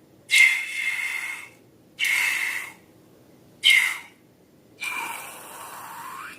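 Air hissing out of a balloon neck in four short bursts, each with a high squealing tone. The last burst is longer and fades out gradually.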